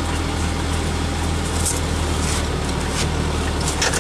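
Off-road 4x4's engine running with a steady low drone, with a few short crackles about halfway through and near the end.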